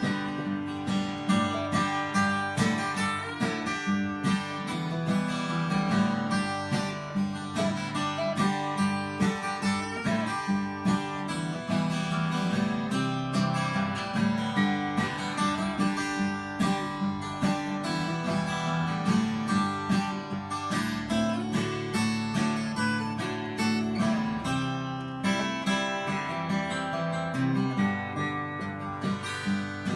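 Acoustic guitar strummed in a steady rhythm, playing an instrumental break with no singing.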